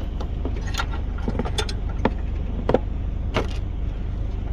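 Light metallic clinks and taps, about six over a few seconds, as hand tools work on a car battery being refitted, over a steady low hum.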